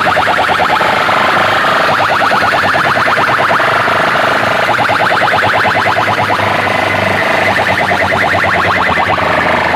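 Large PA sound systems blasting an electronic tone that pulses rapidly and evenly, loud and without a break.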